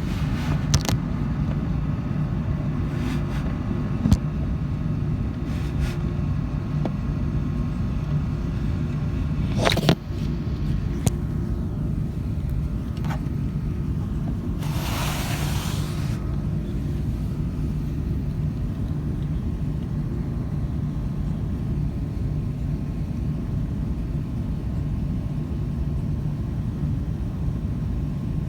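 Steady low rumble of an Airbus A380's engines and airflow, heard from inside the passenger cabin. A few sharp clicks in the first ten seconds, and a brief hiss about fifteen seconds in.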